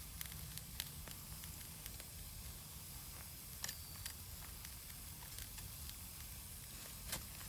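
Wood campfire crackling and hissing steadily, with a few sharp pops and a brief high whistle a little past halfway.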